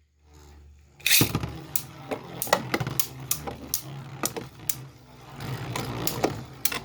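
Beyblade spinning tops launched into a stadium about a second in, then spinning and colliding with repeated sharp clacks over a steady hum.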